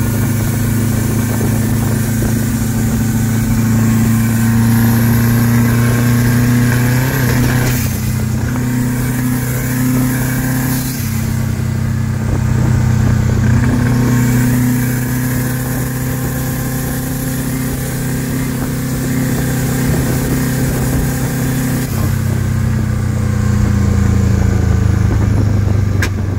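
Subaru EJ23 turbocharged flat-four in a 1971 VW TL, heard from inside the cabin while driving. The engine runs at a steady note that drops and picks back up a few times, around eight, eleven and twenty-two seconds in.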